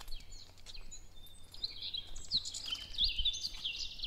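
Songbirds chirping and twittering: a quick run of short high notes that gets busier after about a second and a half, over a faint low rumble.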